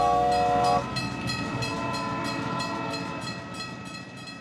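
Train sound effect: a horn chord that cuts off under a second in, then the rhythmic clickety-clack of train wheels on rails, fading away.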